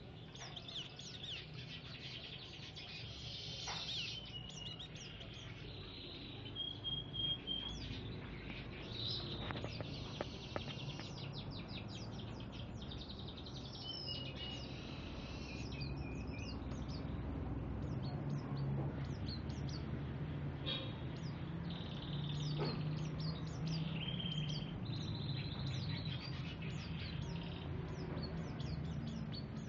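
A songbird singing a long, varied run of quick whistles, trills and chattering notes, the kind of recorded 'master' song played to train murai (magpie-robins), over a low steady hum.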